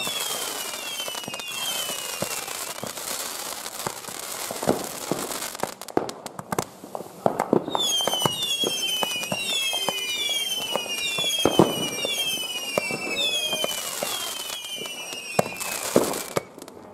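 Firework battery firing shots in quick succession with sharp bangs. For the first few seconds there is a dense hiss with pops. From about eight seconds in comes a run of short whistles, about two a second, each falling in pitch.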